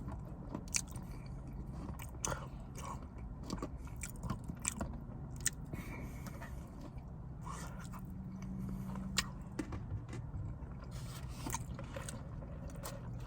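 Close-miked mouth sounds of eating: chewing and biting with irregular wet clicks and smacks, over a steady low hum.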